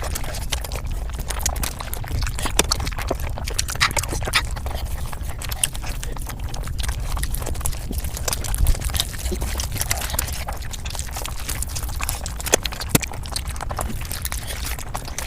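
Mukbang eating sounds sped up five times: a fast, unbroken stream of chewing and crunching clicks over a steady low rumble.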